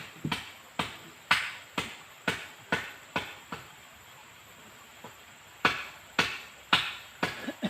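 Repeated sharp striking blows, about two a second, each ringing briefly; they stop for about two seconds midway, then start again.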